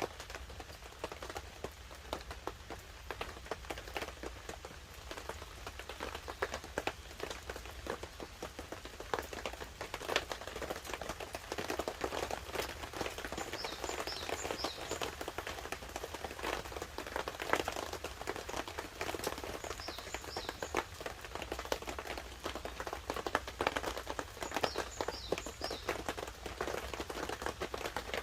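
Wood campfire crackling and popping irregularly under a tarp, with light rain pattering on it. A bird chirps briefly three times, about 14, 20 and 25 seconds in.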